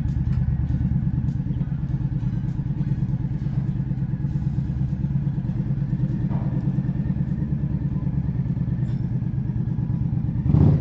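Motorcycle V-twin engine running steadily with a dense, even pulse. Near the end comes a short louder burst, then the sound drops away abruptly.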